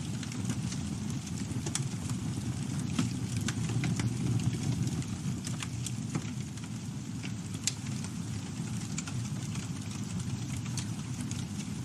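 Campfire burning: a steady low rumble of flames with scattered crackles and snaps, and one sharper pop about two thirds of the way through.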